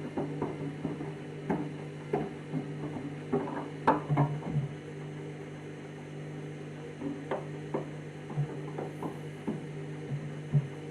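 Candy washing machine's drum motor turning the drum during the main wash, a steady hum with irregular knocks and sloshing as a nearly empty load of a mat and a detergent ball tumbles.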